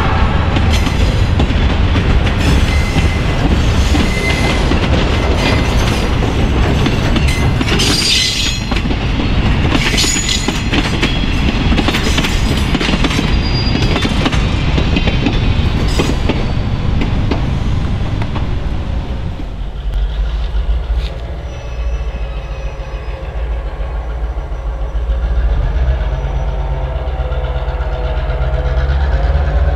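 Freight cars and a caboose rolling past, their steel wheels clattering and clacking over the rail with brief high wheel squeals. After about twenty seconds the clatter drops away, leaving a lower, steady engine drone.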